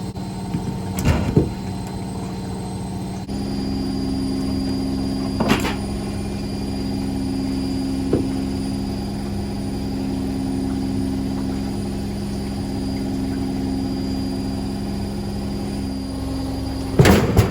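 Indesit Moon SIXL145 washing machine running with a steady motor hum that steps to a slightly different pitch about three seconds in. A few sharp knocks come through, the loudest near the end.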